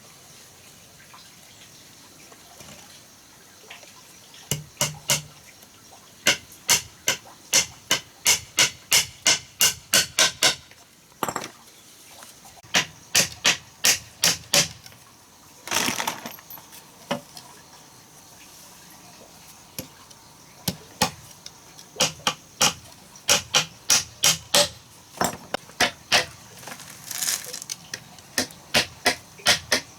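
Hammer blows on wood in quick runs of strikes, about two or three a second, with short pauses between the runs.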